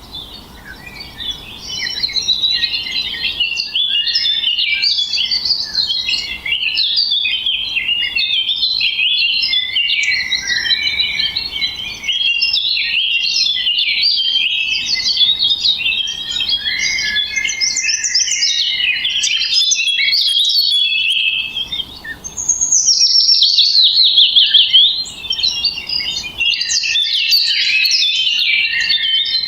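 Several songbirds chirping and warbling continuously, with a run of quick repeated high notes about three-quarters of the way through.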